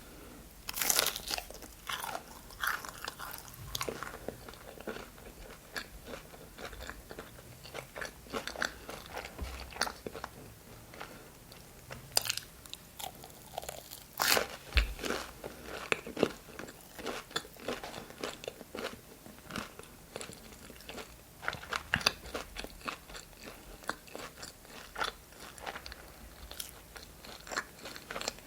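Close-miked eating: crunchy bites into breaded chicken nuggets and wet chewing. The crisp crunches come irregularly throughout, with several louder bites scattered among quieter chewing.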